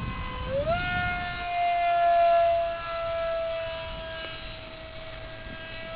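Electric ducted fan of a radio-controlled Eurofighter model jet whining in flight. The whine glides up in pitch about half a second in as the fan speeds up, then holds steady while it swells louder and fades again.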